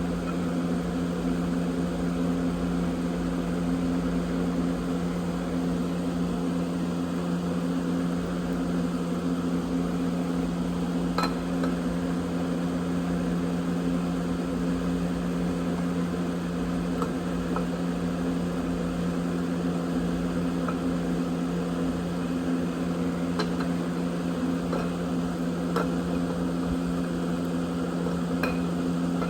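Steady mechanical hum, like a shop fan or similar running machine, holding two low pitches without change, with a few faint light clicks scattered through it.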